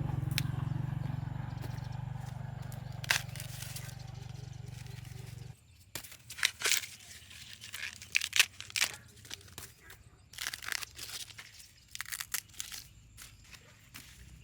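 A steady low hum cuts off suddenly about five seconds in. It gives way to a run of sharp snaps, tearing and crackling of dry plant matter, typical of corn ears being broken off the stalks and husked by hand.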